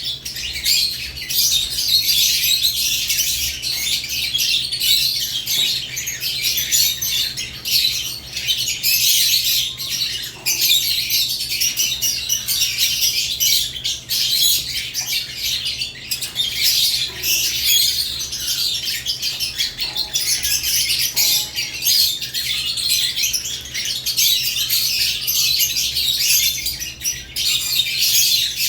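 Several lovebirds chattering in a cage: a dense, continuous stream of high chirps and squawks with no pauses.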